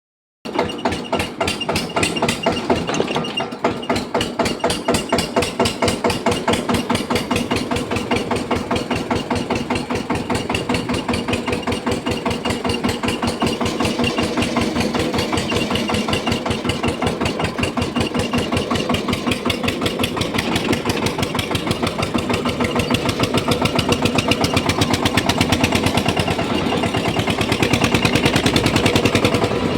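Eicher 242 tractor's single-cylinder diesel engine running at a steady speed with an even, rapid pulsing beat, getting slightly louder over the last few seconds.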